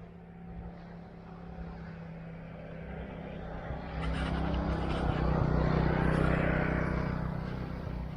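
A motor vehicle driving past, its engine and road noise growing louder to a peak about six seconds in, then fading.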